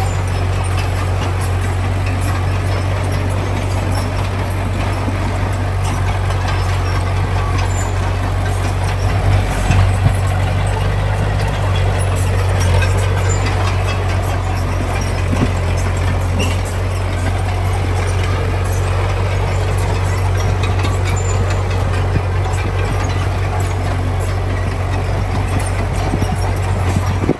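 Heavy diesel engine of earthmoving machinery running steadily under load, a deep constant hum with a rough clatter over it.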